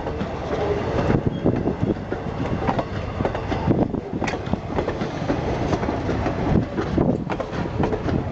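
Strasburg Rail Road passenger train rolling past close by, its steel wheels clicking and clattering irregularly over the rail joints above a steady rumble.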